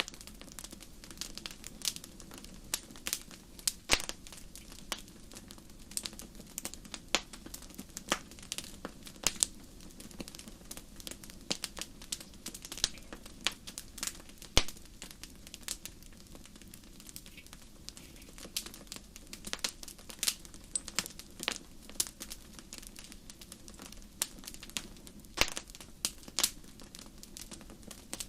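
Wood fire burning in a fireplace, crackling with frequent sharp, irregular pops and snaps over a low, steady background hiss.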